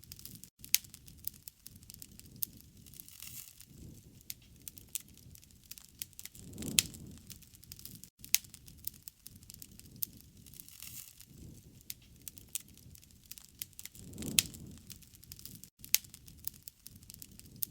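Campfire burning: the wood crackles and pops in sharp clicks over a soft low rushing of flames that swells about every seven and a half seconds.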